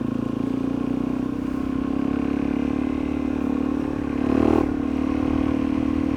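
Single-cylinder four-stroke dirt bike engine running at a steady low speed while riding, with a brief throttle surge about four and a half seconds in.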